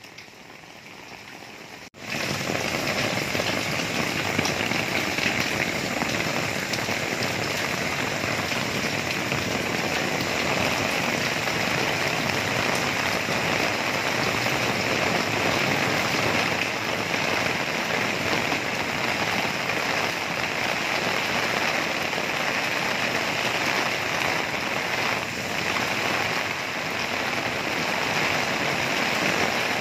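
Heavy storm rain, a dense steady hiss of a downpour. It comes in suddenly and much louder about two seconds in, after a quieter start.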